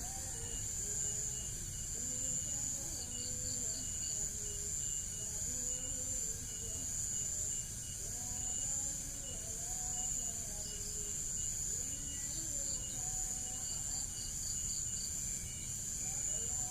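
Steady high-pitched chirring of background insects, with faint pulses repeating through it and some faint wavering tones lower down.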